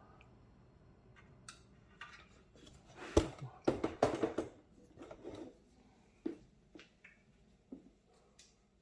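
Hands working inside a desktop PC case while plugging in a fan cable: a sharp knock about three seconds in, then a quick run of plastic clicks and rattles, and a few lighter clicks toward the end.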